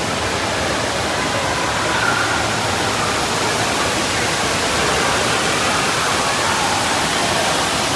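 Steady rushing and splashing of water at a water park, with faint voices mixed in.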